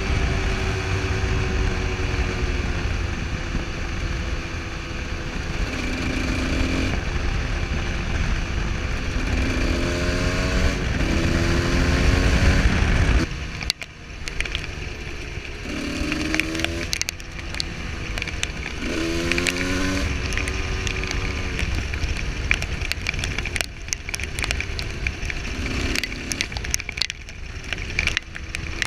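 Husqvarna SM125 supermoto engine running under way, its pitch rising again and again as it revs up through the gears, over a heavy low rumble. About halfway through the rumble falls away and a crackle of small clicks takes over between the revs.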